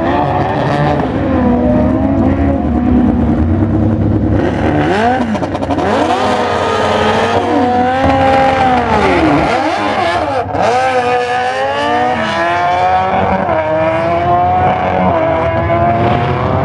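Drag-racing Suzuki motorcycle engines running steadily at first, then launching hard about four seconds in and accelerating down the strip. The pitch climbs and drops back several times as the gears shift.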